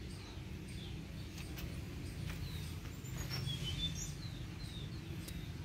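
Small birds chirping now and then, short high chirps, several falling in pitch, over a steady low background rumble.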